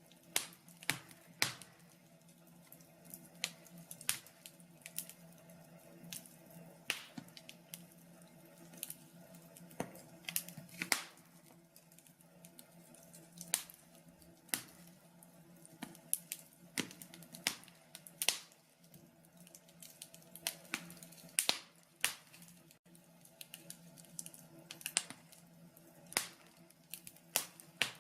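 Wood fire burning in a log burner, crackling with irregular sharp snaps and pops a few times a second over a faint steady hum.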